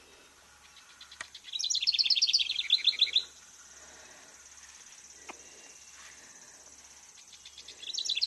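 A songbird singing a fast trill of repeated notes that steps down in pitch partway through, each song about a second and a half long: once about a second and a half in, and again near the end.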